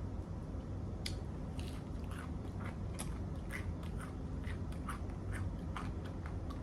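A person chewing food close to the microphone, with a run of short, irregular mouth clicks and smacks starting about a second in, over a low steady hum.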